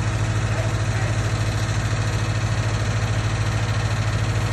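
An engine running steadily at idle: a constant low hum with a fast, even pulse.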